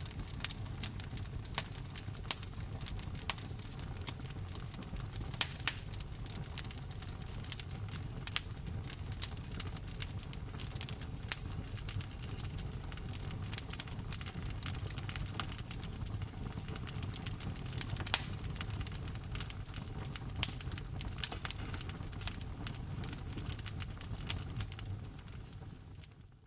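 Wood fire crackling in a fireplace: dense, irregular snaps and a few louder pops over a low, steady rumble of the burning logs, fading out near the end.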